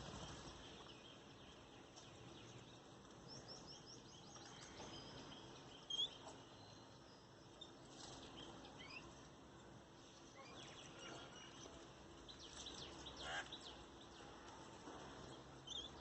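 Faint, scattered chirps and calls of garden birds gathered around a feeder, with a quick run of chirps about three seconds in and a small cluster of calls near the end.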